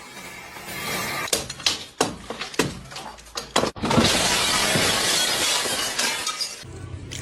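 Ice breaking and shattering: a string of sharp cracks and clinks, then about three seconds of dense crashing and tinkling that stops shortly before the end.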